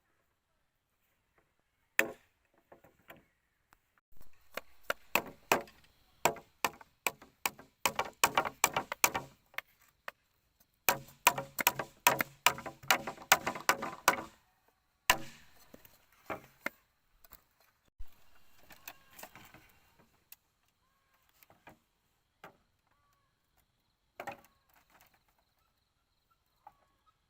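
A blade chopping bamboo: quick runs of hard strikes, several a second, with a short pause about ten seconds in. Later come fainter scraping and a few scattered single blows.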